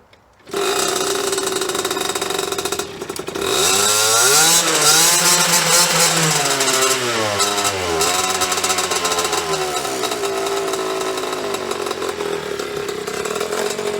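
Single-cylinder two-stroke engine of a 1998 KTM 50 mini dirt bike, running and being revved up and down several times, its pitch rising and falling. It starts suddenly about half a second in.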